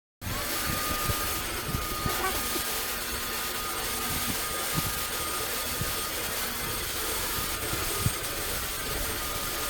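Riccar 25 series upright vacuum cleaner running steadily, with a faint high whine and a few soft knocks. Its brush roller is not turning because the brush roller breaker has tripped.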